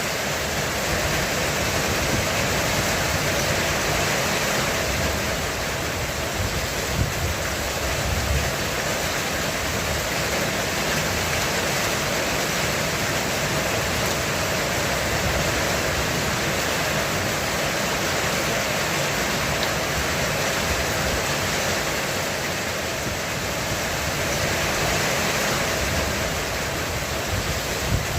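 Heavy rain pouring steadily on a roof, an even hiss of drumming drops. There are a few brief low rumbles about a quarter of the way in and again near the end.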